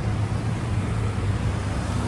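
Steady low rumble of vehicle traffic on a busy city street.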